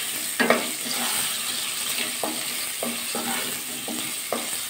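Potato wedges sizzling in hot mustard oil in a kadai while a spatula stirs them, with a run of short scrapes and knocks of the spatula against the pan, the sharpest about half a second in, over a steady sizzle.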